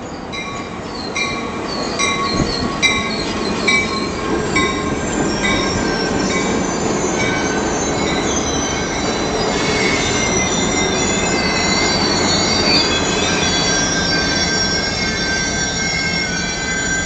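Caltrain commuter train's stainless-steel bilevel cars rolling slowly past as the train slows into the station, the wheels and brakes squealing in high, wavering tones. For about the first five seconds a bell rings a little faster than once a second.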